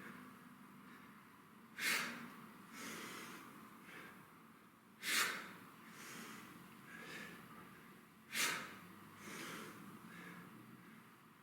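A man's sharp, forceful breaths out, three in all about three seconds apart, with quieter breaths in between: exhaling on each stand of a heavy kettlebell deadlift rep.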